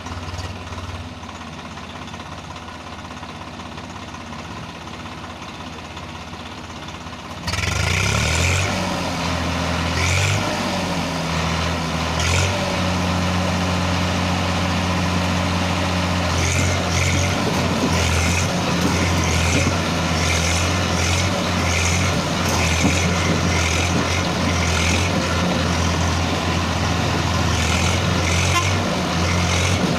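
Heavy diesel vehicle engine running steadily, becoming abruptly much louder about seven seconds in, with short higher-pitched noisy bursts recurring over it.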